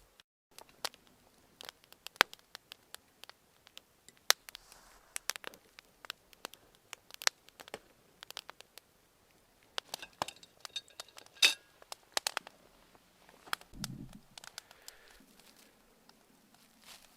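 Irregular sharp clicks and crackles, scattered unevenly, with one louder snap about eleven and a half seconds in and a short low rumble a couple of seconds later.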